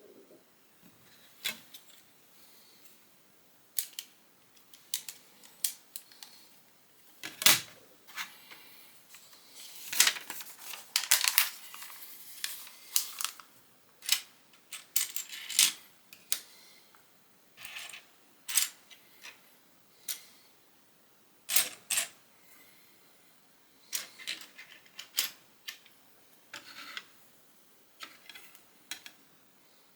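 Plastic Lego bricks clicking and clattering as pieces are picked up, handled and pressed together: scattered sharp clicks, with a denser run of rattling pieces from about ten to thirteen seconds in.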